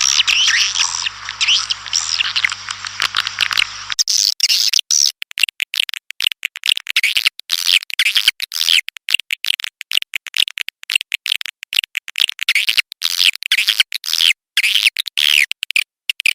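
Swiftlets twittering: dense, rapid high chirps of the kind played as a lure to draw swiftlets to nest. About four seconds in the low hum underneath cuts out, and the chirping continues in choppy bursts with short gaps.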